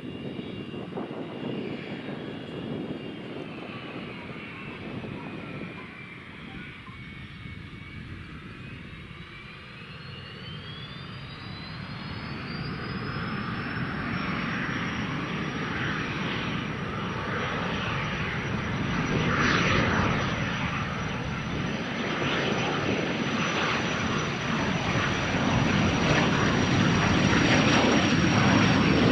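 Cessna Citation CJ1's twin Williams FJ44 turbofans: a high whine that dips slightly, then rises steeply about ten seconds in and holds high while the engine noise grows steadily louder, as the jet spools up for its takeoff.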